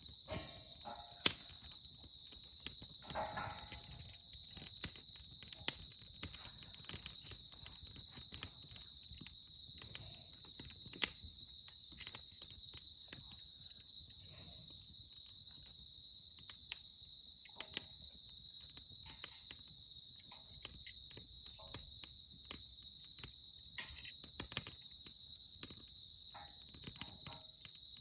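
Wood campfire crackling, with irregular sharp pops and snaps, over an insect's steady high trill.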